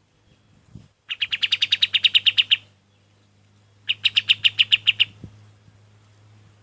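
Kapas tembak, a triller, singing two fast trills of rapidly repeated high notes, about ten a second, the first about a second in and the second near the middle, over a steady low electrical hum.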